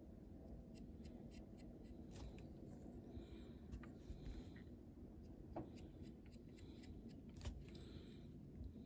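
Near silence with faint scratching and scattered small clicks from hand-painting a small diecast model car, a few of the clicks a little sharper than the rest.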